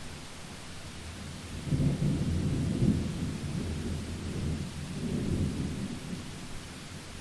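Rolling thunder over steady rain. A low rumble breaks in sharply about two seconds in and peaks soon after. It swells a second time about five seconds in, then fades back into the rain's hiss.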